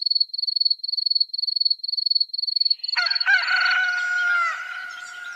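A high, rapid pulsing chirp, about four chirps a second, like a cricket, stops about three seconds in as a rooster crows loudly in one long crow.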